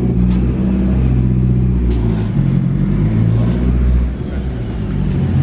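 Nissan 240SX's engine running, loud and steady, with background music playing over it.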